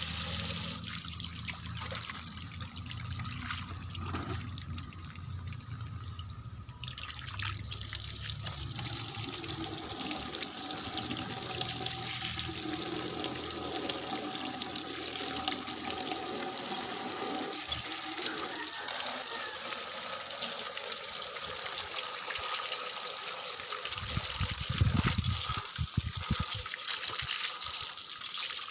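Water running and splashing steadily while a birdcage is rinsed of droppings, with a louder spell of low rumbling near the end.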